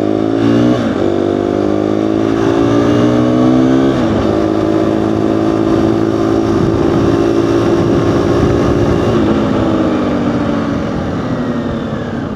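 Motorcycle engine heard from a mic inside the rider's helmet, accelerating through the gears. The pitch climbs and drops at upshifts about one and four seconds in, holds steady at speed, then drops again about nine seconds in and eases off near the end, over a steady rush of wind.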